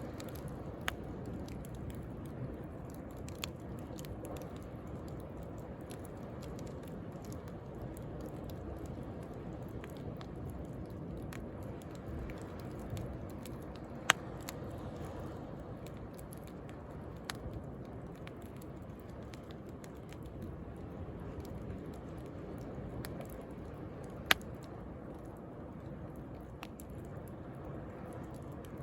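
Wood bonfire crackling, with scattered sharp pops, two of them loud, over the steady low wash of sea waves.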